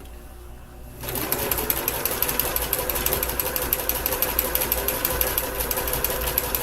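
Kenmore entry-level sewing machine starting about a second in and then running steadily, zigzag-stitching along the edge of cross stitch fabric: rapid, even needle ticking over a steady motor tone.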